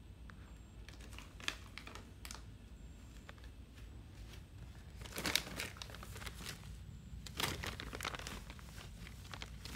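Rustling and crinkling noises, scattered and brief, bunching up about five seconds in and again around seven to eight seconds.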